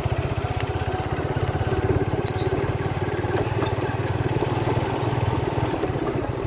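Motorcycle engine running steadily during a ride, with a fast, even low putter.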